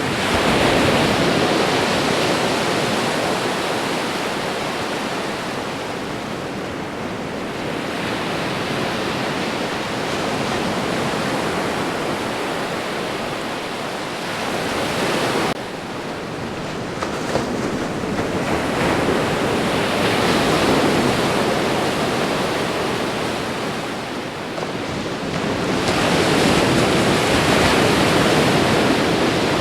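Ocean surf: waves breaking and washing ashore in a continuous rush that swells and eases every several seconds. The level drops abruptly about halfway through, then builds again.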